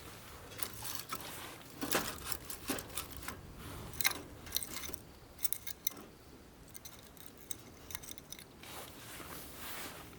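Light handling sounds: a series of sharp clicks, taps and scrapes, loudest about two and four seconds in, with brief rustling near the start and the end.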